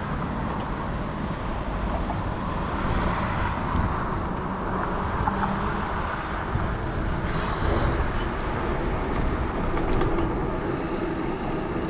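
Steady rolling noise of a Salsa Journeyman bicycle's 650b tires, loud while riding.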